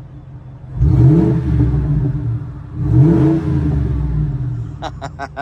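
Truck engine with a Flowmaster muffler and dual exhaust, revved twice from idle. Each blip rises quickly in pitch, holds, then falls back to a deep idle.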